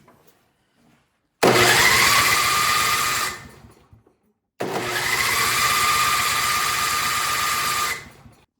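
Snowblower's plug-in electric starter cranking the engine twice, for about two seconds and then about three and a half seconds. Each time a whine rises as the starter spins up and then holds steady. The engine never fires: it won't start.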